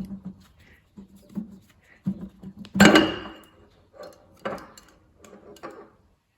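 Metal parts of a manual gearbox's rear housing knocking and clinking as they are handled, about half a dozen separate knocks. The loudest, about three seconds in, rings briefly.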